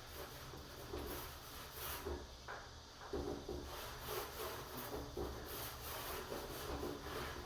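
Repeated rubbing strokes over a wooden door surface, about one or two a second, over a steady low hum.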